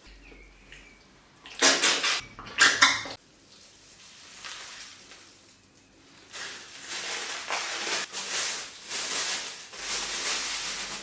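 Dishes and cutlery clattering: a few loud, sharp knocks about two seconds in, then several seconds of continuous noisy handling of plates and utensils.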